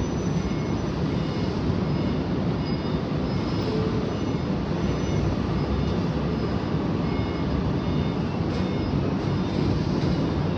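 Heavy truck running, a steady low rumble with no clear change, and faint high tones coming and going over it.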